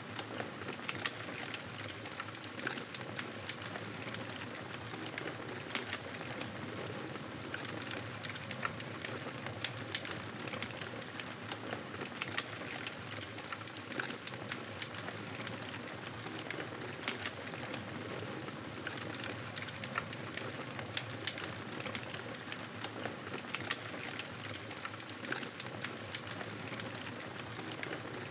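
Campfire crackling: a steady hiss of burning wood with many small irregular pops and snaps.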